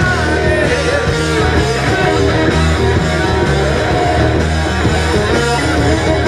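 Live rock band playing: distorted electric guitars over bass and drums in an instrumental passage between sung lines.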